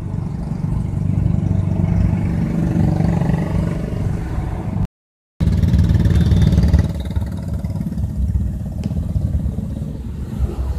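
Car engine and road rumble heard from inside the cabin while driving, a steady low drone, cut by a half-second gap of silence about five seconds in.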